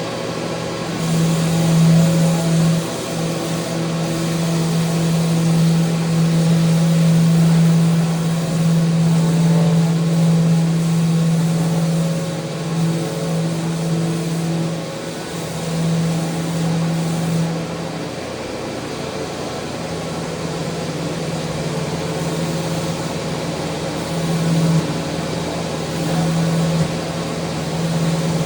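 Electric sander running on handrail wood, a steady motor hum whose strength wavers every few seconds as it works.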